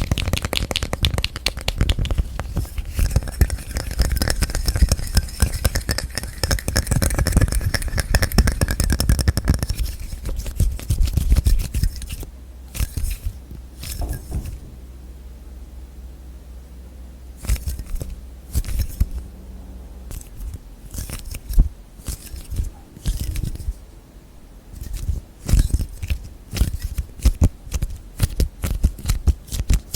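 Hands tapping and scratching on objects and container lids: a fast, dense run of clicks for about the first ten seconds, sparser taps in the middle, then quick tapping again near the end.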